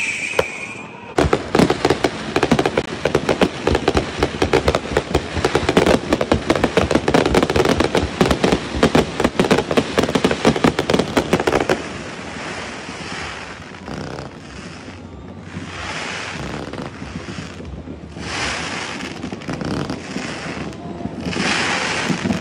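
Aerial fireworks going off: a dense barrage of rapid crackling pops for about ten seconds, then easing into softer, separate swells of crackle and bursts with short gaps between them.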